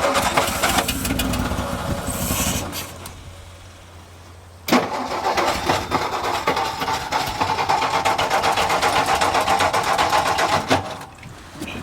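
1962 Ford F-350's engine starting on fuel poured into the carburettor. It runs for a few seconds and fades out, then starts again about halfway through and runs with a fast, even beat for about six seconds before dying.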